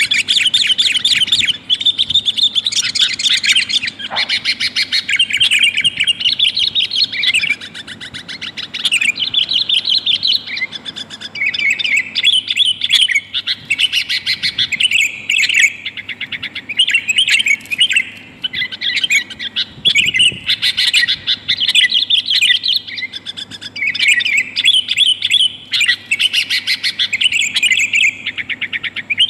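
Sooty-headed bulbul (kutilang) calling in busy, near-continuous runs of short chattering notes, with only brief pauses. This is the female's call to males, used as a lure to bring wild bulbuls down.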